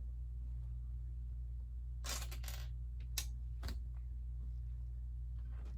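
Plastic Lego bricks clicking and clattering: a short rattle of loose pieces about two seconds in, then a few single clicks, over a steady low hum.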